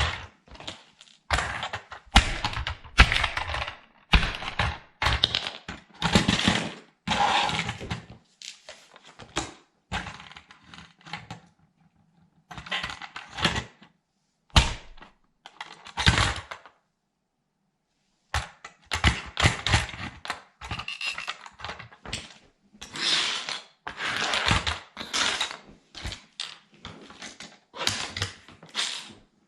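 A plastic toy military truck being crushed underfoot by a sandal: repeated cracking and crunching of plastic in irregular bursts, with a few short pauses.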